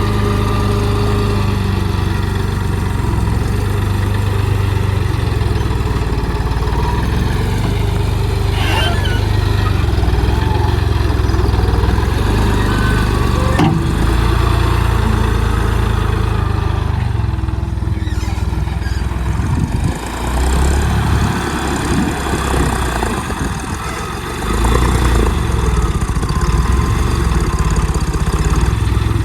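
Tractor engine running steadily under load. It drops back for a few seconds around twenty seconds in and picks up again about five seconds later. Two short knocks can be heard over it.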